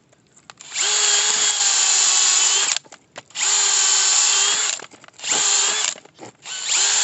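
Power drill spinning a screw-type firewood splitting bit into a log, driven in four bursts of the trigger with short pauses between. The first burst is the longest, about two seconds.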